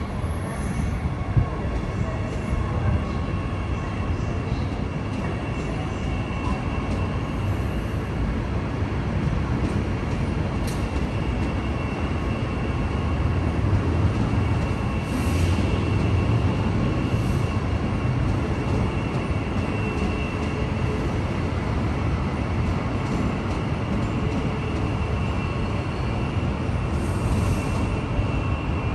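Queensland Rail electric suburban train moving at a station platform: a steady rumble with faint steady whining tones, and a few brief hisses.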